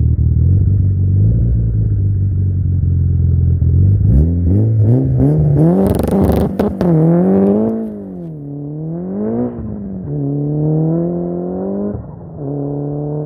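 Mitsubishi Lancer Evolution VIII's turbocharged 2.0-litre four-cylinder idling, then revving up against its two-step launch control with sharp crackling pops from the exhaust. It then launches on dirt, the engine note falling and rising as the car pulls away.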